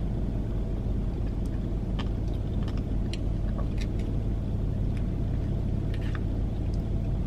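A steady low hum, with scattered faint light clicks of a spoon against the cup while ice cream is eaten.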